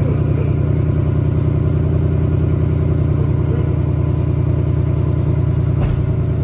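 Ford Mustang GT's 5.0-litre Coyote V8 idling steadily after a cold start, with a deep, even exhaust note. A single brief click comes near the end.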